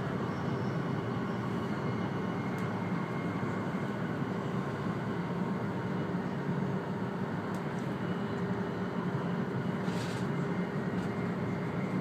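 Steady running noise of an E2 series Shinkansen heard inside the passenger car, an even rumble with a faint steady hum and a few faint ticks.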